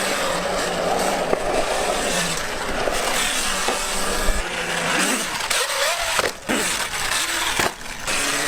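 A motorcycle riding along the road, with rushing wind and road noise; the engine's pitch rises and falls a few times.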